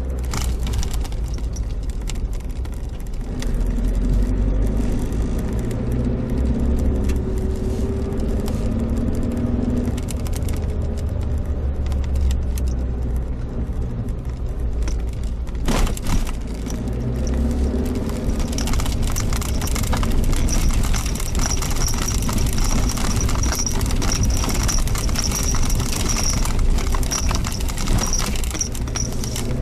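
Suzuki Jimny Sierra driving, heard from on board: the engine running with its pitch rising and falling as the road changes, over a constant light rattle and road noise. A single sharp knock about halfway through, as from a jolt.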